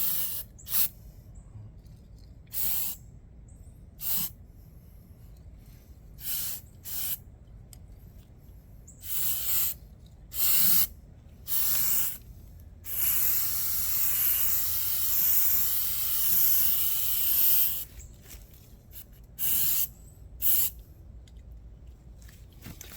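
Aerosol spray can of primer hissing as paint is sprayed on: about a dozen short bursts, with one long spray of about five seconds past the middle.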